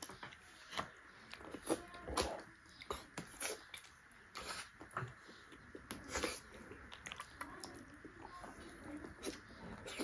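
Close-up eating sounds of soft ripe jackfruit bulbs: wet chewing and lip smacks, coming as short, irregular clicks.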